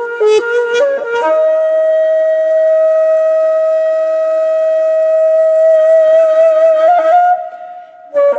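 Background music: a solo flute-like wind instrument plays a few quick notes, then holds one long note for about six seconds, wavering slightly at its end before a brief break near the end.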